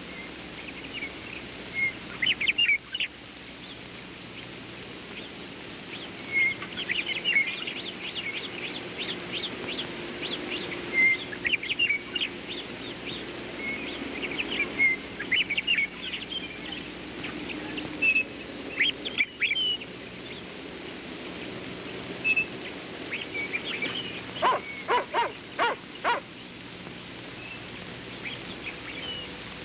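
Birds chirping and singing outdoors: short high calls scattered throughout, with a quick run of about five sharper, louder notes late on, over a steady background hiss.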